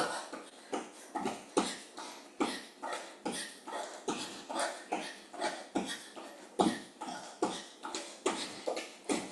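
A person exercising hard: short forceful breaths with footfalls, in an even rhythm of about two to three a second through a cardio interval.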